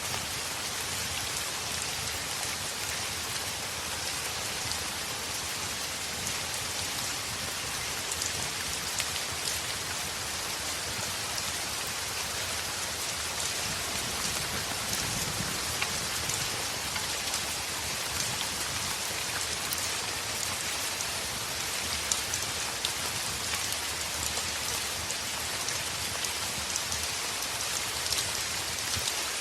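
Heavy rain falling on a window: a steady, even hiss with scattered sharp taps of individual drops.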